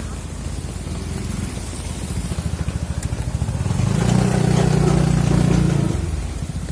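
A motor vehicle's engine running close by, growing louder about four seconds in and then fading as it passes, over a steady hiss of rain.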